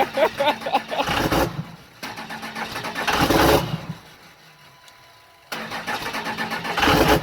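24-valve Cummins inline-six diesel being cranked on the starter in three bursts, each a fast, even chugging. It struggles to fire on a cold start after sitting three days.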